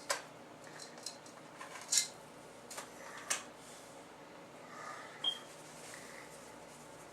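Quiet kitchen handling: a handful of light clicks and taps of a seasoning container and utensils while T-bone steaks are seasoned and laid in a pot, the sharpest tap about two seconds in, with a brief high squeak about five seconds in.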